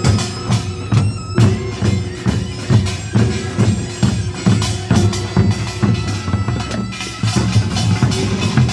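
Korean nongak farmers' band music: a taepyeongso shawm holds a reedy melody over drums and gongs beating steadily at about two strokes a second.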